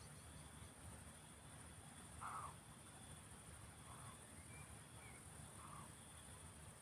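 Three short, hoarse barks of a roe deer, faint and roughly one and a half seconds apart, the first the loudest. They sound over a steady high chirring of crickets.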